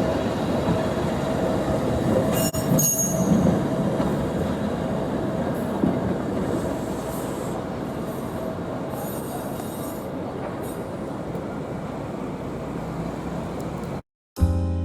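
Fukui Railway streetcar running along its street track, a steady rumble with a humming tone, with high-pitched wheel squeal a couple of times as it goes, growing fainter. The sound cuts off just before the end.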